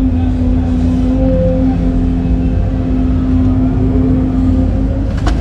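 Hydraulic excavator's diesel engine running steadily under work, with a steady whine over its low rumble.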